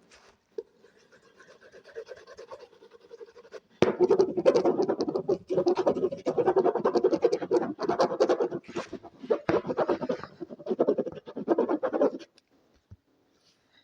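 Rapid scratching on an object's surface as an ASMR trigger: faint and sparse at first, then loud and dense from about four seconds in, stopping shortly before the end.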